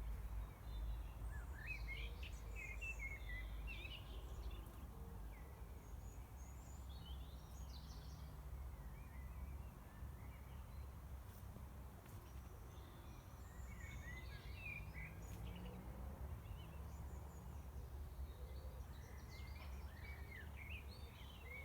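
Several songbirds singing and calling in short, scattered chirping and warbling phrases, busiest near the start and the end, over a steady low background rumble.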